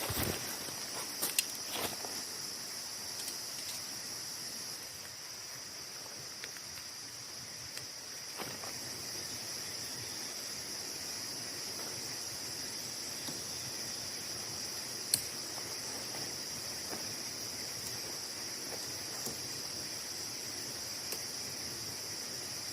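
Steady night chorus of insects such as crickets, trilling in two high, unbroken bands. A few sharp clicks stand out over it: a cluster in the first two seconds and a single loud one about fifteen seconds in.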